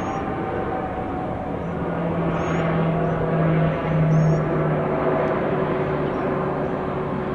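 Jet airliner engines running, a steady roar with a low hum that drops slightly in pitch as the aircraft moves. A small bird chirps repeatedly above it.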